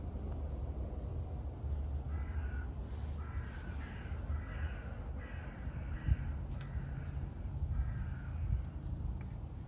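A series of about seven short, harsh animal calls, repeated every second or so, over a steady low rumble.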